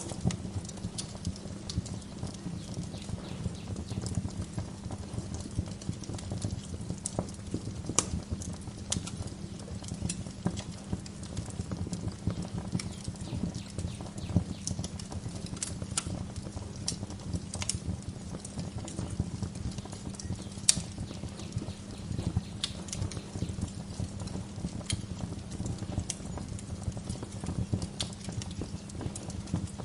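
Wood fire crackling in a fireplace: a steady low rumble of the flames with a dense patter of small crackles and sharp pops every second or so, the loudest pop about two-thirds of the way in.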